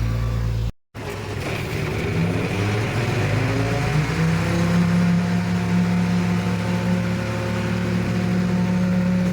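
Diesel engine of heavy earthmoving equipment; its revs rise over about two seconds, then it runs steadily under load. A brief dropout just under a second in marks a cut.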